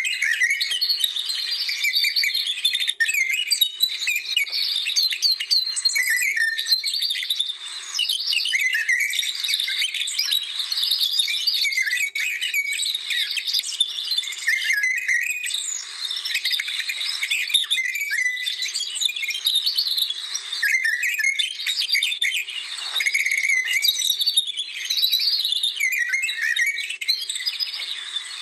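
Several songbirds singing at once: a dense chorus of quick, high chirps and trills overlapping without a break.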